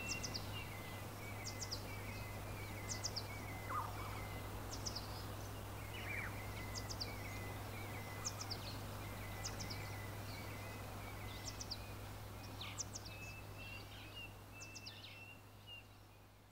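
Birds singing: a short high call repeated about every second and a half over a lower run of chirps, with a steady low hum beneath. It fades out near the end.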